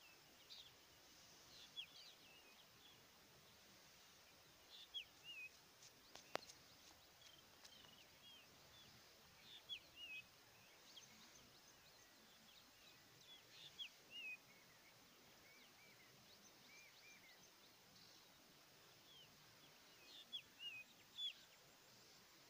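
Birds calling in the open: scattered short chirps and quick whistled notes, some in little runs of two or three, over a faint steady hiss. A single sharp click about six seconds in.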